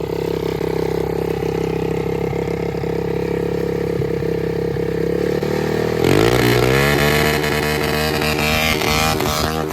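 Quad engine running with the throttle taped open in gear, steady for about six seconds. Then it turns suddenly louder and climbs in pitch as the machine speeds up, and it stays high near the end.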